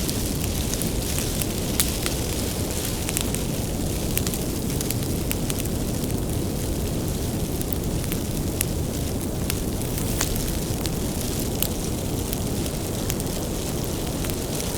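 Bonfire of firewood burning, a steady low rumble of flames with frequent sharp crackles and pops at irregular intervals.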